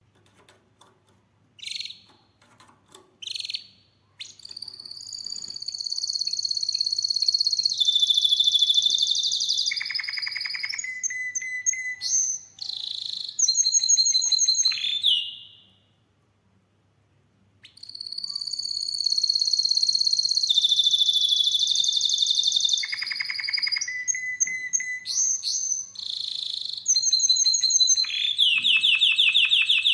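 Domestic canary singing. A couple of short chirps, then long phrases of rapid trills and rolling notes. The song stops for about two seconds just past halfway, then starts again.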